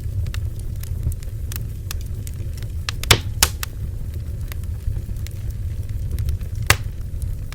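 Bonfire burning: wood crackling and popping in irregular sharp snaps, two louder pops about three seconds in and near the end, over a steady low rumble of the flames.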